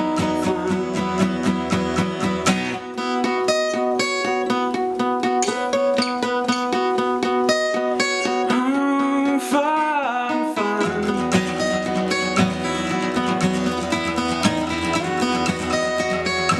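Acoustic guitar music, plucked and strummed, in an instrumental stretch of a pop song. The low notes drop out about three seconds in and come back about eleven seconds in.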